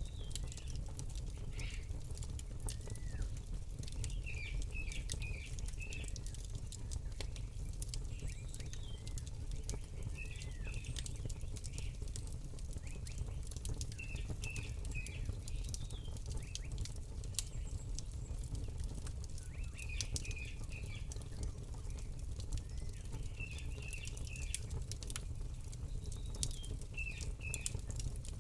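Campfire crackling with scattered sharp pops over a low steady rumble, while a bird repeats a short phrase of three or four quick chirps every few seconds.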